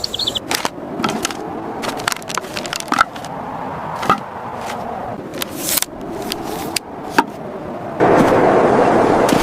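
Irregular sharp clicks and knocks over a low rolling rumble, with a louder steady rushing noise starting near the end.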